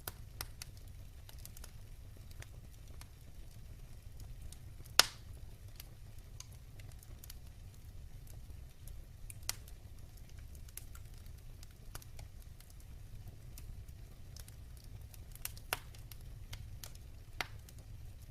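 Wood fire burning in a fireplace: a steady low rumble with scattered sharp crackles and pops, the loudest pop about five seconds in.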